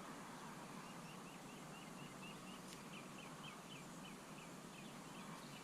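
Faint bird calling: a rapid, even series of short high chirps, about four a second, over a soft steady hiss.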